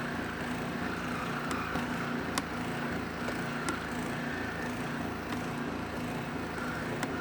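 A steady low mechanical drone, as of a motor running, with a single sharp click about two and a half seconds in.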